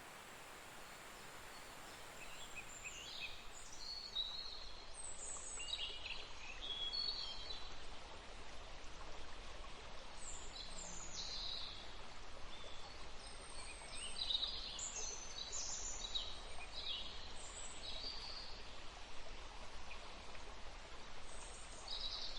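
Birds singing and calling in repeated short, falling chirps over a steady rush of flowing river water.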